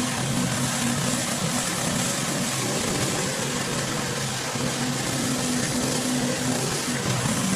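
Pressure washer running: a steady engine drone under the hiss of the high-pressure water spray. The engine tone dips a little in the middle and comes back.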